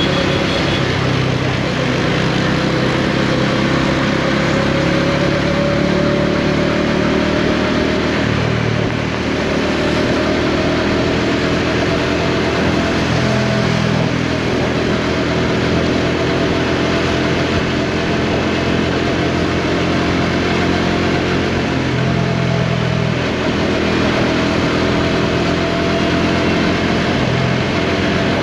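Bajaj Dominar 400's single-cylinder engine running while the motorcycle is ridden, its note dipping briefly a few times and otherwise climbing slowly, over a steady rush of wind and road noise.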